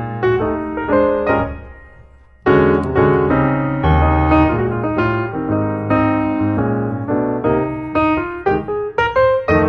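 Background piano music, a gentle instrumental that fades out about two seconds in and starts again half a second later.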